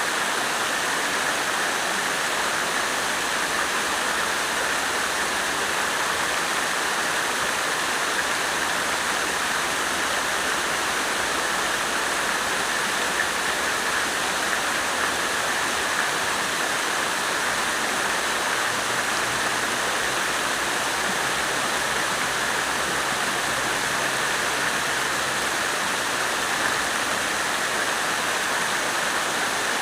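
Water fountain splashing steadily into its basin.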